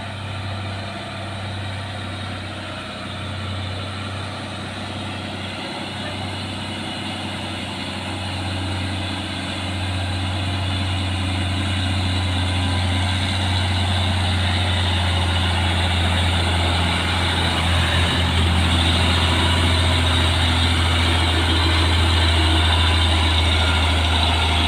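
Diesel engine of a Mitsubishi Fuso 6x4 truck pulling up a steep hill in a steady low drone that grows louder over the second half as the truck comes closer.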